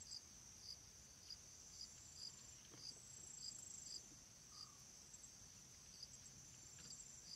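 Faint insect chirping, cricket-like: a steady high trill with a regular chirp about twice a second.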